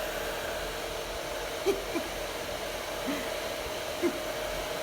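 Hairdryer blowing steadily on its lowest heat setting, its air fed through a cut plastic water bottle into the pool's inflation valve to inflate it. A few short chirp-like squeaks sound over it.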